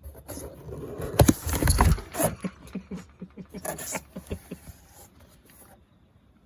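Cat chattering: a run of short, rapid clicks and chirps, about five or six a second, with a louder rustling burst near the start.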